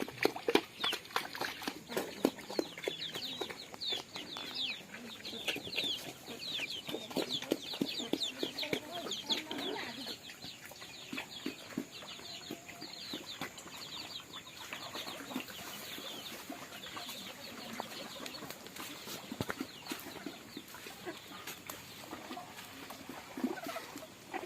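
Domestic chickens calling: a dense run of short, falling, high peeps with lower clucks among them. The peeps are busiest in the first ten seconds and thin out after that.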